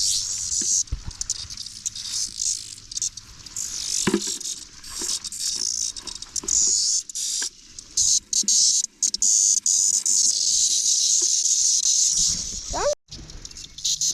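Cicadas buzzing in stretches that start and stop, over a pattering of rain, with scattered small clicks and rustles from handling.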